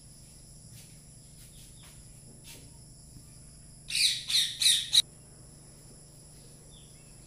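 A bird calling: a burst of four quick, harsh chirps about four seconds in, over a faint steady high-pitched whine.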